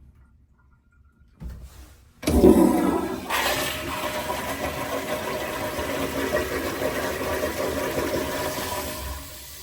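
American Standard toilet flushing: after a brief quiet and a small click, a loud rush of water starts about two seconds in and runs steadily, easing off near the end.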